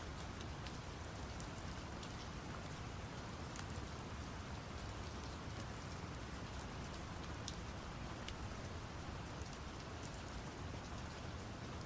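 Steady rain with scattered sharp drop ticks, layered over a deep, even brown-noise rumble. It holds constant throughout, without breaks or thunder.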